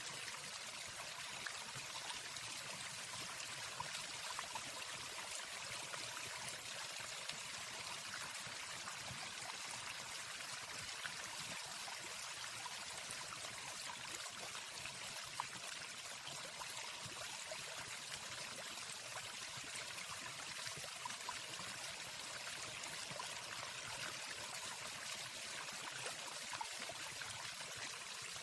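Waterfall: steady, even rush of falling water, with no birdsong.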